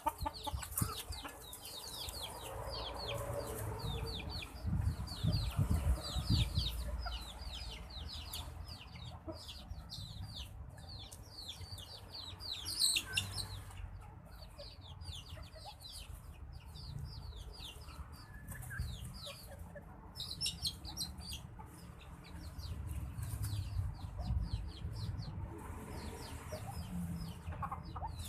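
Birds chirping quickly and continuously in short downward-sliding notes, several a second, with brief pauses. A low rumble sounds under them in the first few seconds.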